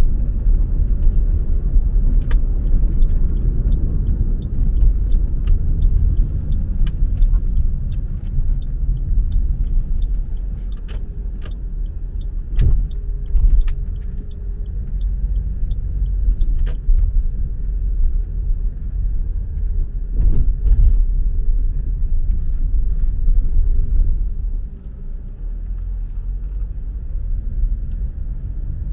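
A car driving along a road: steady low rumble of engine and tyres on the road surface. It is broken by scattered sharp clicks and knocks, with a run of faint regular ticks early on.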